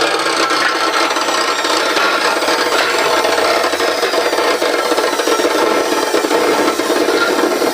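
A tool working material with a steady, continuous rasping noise, without pause.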